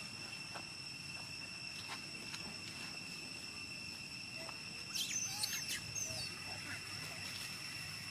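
Outdoor ambience with a steady high-pitched insect drone. About five seconds in there is a brief flurry of high, squeaky animal chirps.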